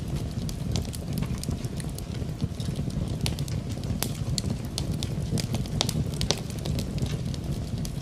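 Wood fire in a fireplace crackling, with frequent irregular snaps and pops over a low steady rumble.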